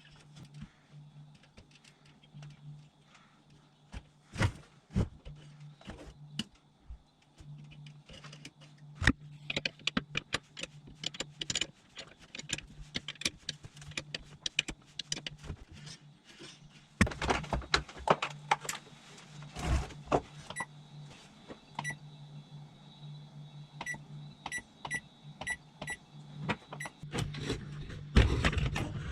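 Panasonic SD-255 bread maker running on its repaired plywood pulley: a steady low motor hum that drops out a few times, with scattered clicks and knocks. A series of short electronic beeps sounds in the second half.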